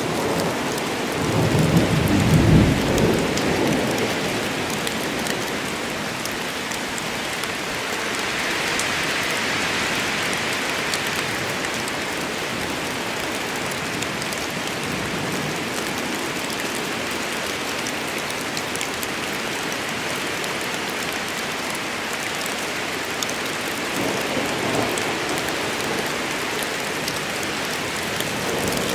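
Steady heavy rain falling in a thunderstorm, with a roll of thunder about two seconds in and fainter rumbles near the end.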